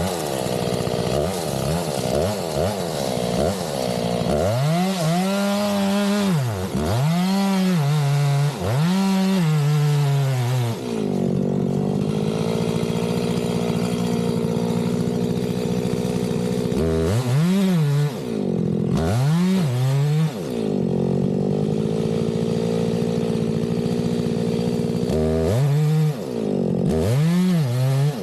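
Two-stroke chainsaw running at full throttle, cutting into a tree trunk. It holds steady revs for long stretches, and in three spells the revs climb and drop back about once a second.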